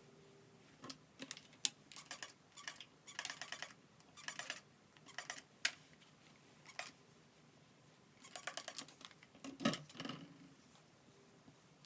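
Short bursts of quick, fine crackling clicks, a dozen or so spread over several seconds, from hands scrunching and working styling product through wet curly hair.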